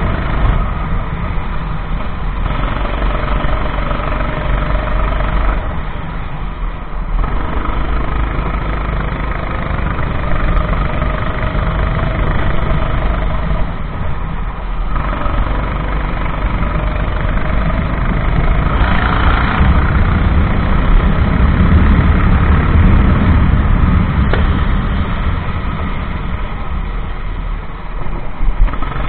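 Go-kart engine running at racing speed, its revs climbing and then falling away briefly every several seconds as the kart slows for corners and accelerates out of them.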